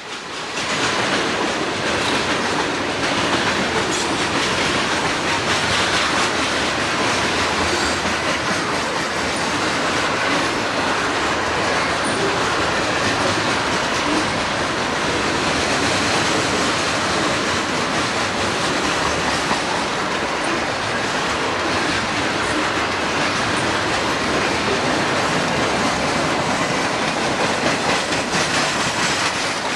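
A train rolling past on the track, its cars' wheels running steadily on the rails.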